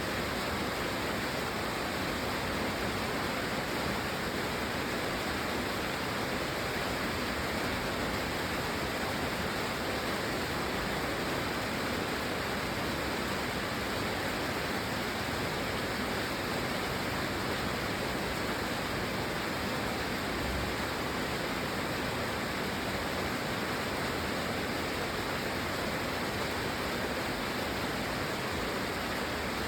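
Steady, unbroken rain: an even hiss with no separate drops, thunder or other events standing out.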